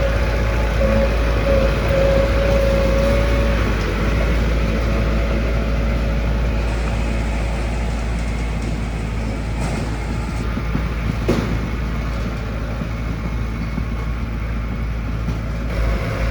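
Diesel engine of heavy road-construction machinery running steadily. A steady tone sounds over it for the first few seconds, and there is a single knock about eleven seconds in.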